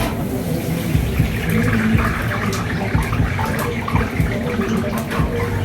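Water running from a tap into a sink, turned on suddenly, with small clicks and clatter over a steady low hum.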